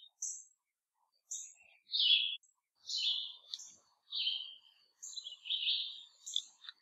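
Songbirds chirping and singing in short, high phrases that come about once a second, with brief gaps between them.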